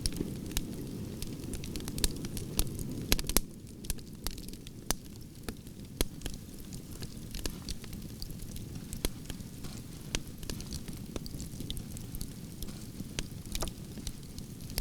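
Wood fire in a fireplace crackling: irregular sharp pops and snaps over a low, steady rumble of the flames. The rumble drops in level about three and a half seconds in.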